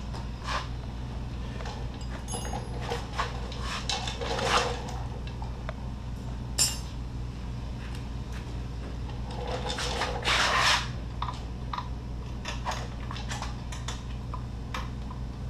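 Metal hand tools and small engine parts clinking and clicking against each other, with a short rattling stretch about ten seconds in, over a steady low hum.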